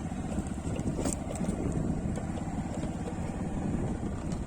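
A small engine running steadily as the vehicle rides along, with a fast, even low pulse.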